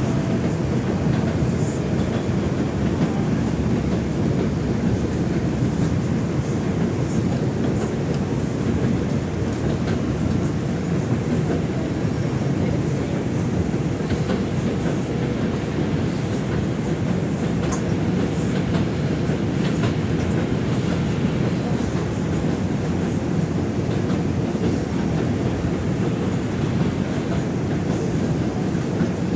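Inside an R142 subway car running between stations: a steady low rumble of wheels on the track, with light clicks over the rail joints and a faint steady high whine throughout.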